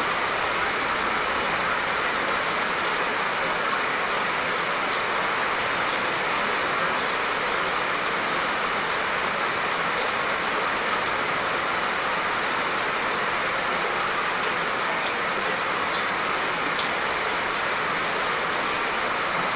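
Steady, soft, light rain falling, with scattered faint drop ticks.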